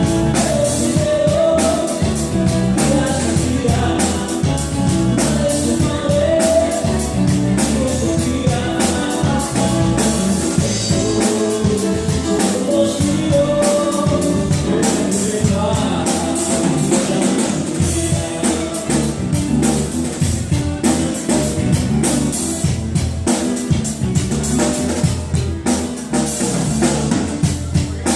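A band playing a song, with a singing voice over a drum kit, continuous and loud.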